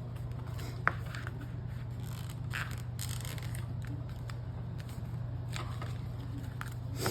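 A scoring tool dragged along cardstock in short scratchy scraping strokes, with a sharp click about a second in and a longer scrape near the middle, over a steady low hum.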